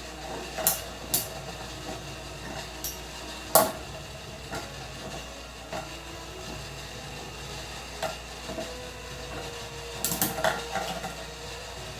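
Two Metal Fight Beyblades, Gravity Destroyer AD145WD and Meteo L-Drago Rush 125SF, spinning and grinding in a Tornado stadium. Their metal wheels clash several times, loudest about three and a half seconds in, with a quick run of hits near the end.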